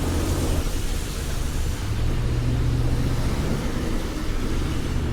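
Street traffic on a wet road: a steady rumble of passing vehicles with tyre hiss.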